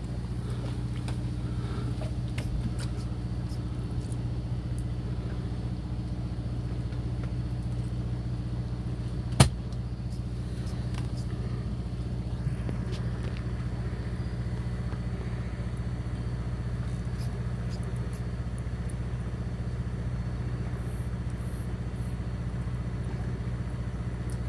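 A fishing boat's engine running with a steady low drone. About nine seconds in, one sharp click or knock.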